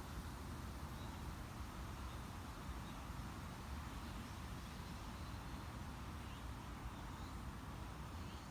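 Summer wind blowing steadily through leafy foliage: an even rustling hiss over a low rumble, with a few faint high chirps now and then.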